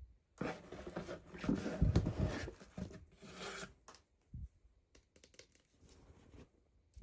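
Toy packaging being torn open, a noisy rustling tear lasting about three seconds. Small clicks and taps of handling follow.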